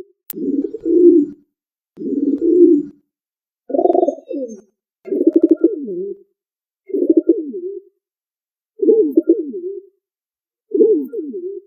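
Pigeon cooing: seven low, throaty coo phrases, each about a second long with a wavering pitch, repeating roughly every one and a half to two seconds.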